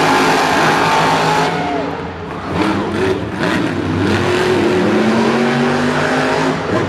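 Monster truck supercharged V8 engines running at full throttle, then easing off about a second and a half in. After that, the engine revs rise and fall.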